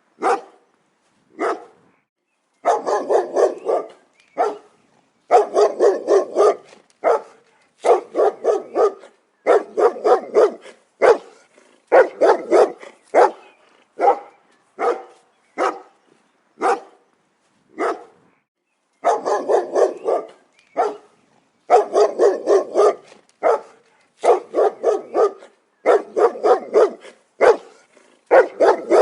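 A dog barking repeatedly: single barks and runs of quick barks in bursts, separated by short silent gaps.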